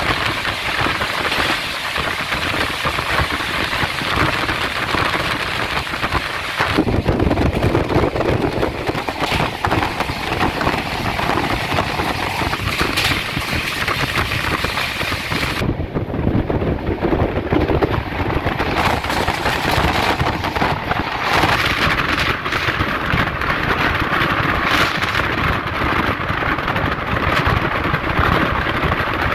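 Train running at speed, heard from on board: a loud, steady rumble and rattle of wheels on rails with rushing air. The tone shifts to a heavier low rumble about seven seconds in, and the high hiss drops away around sixteen seconds.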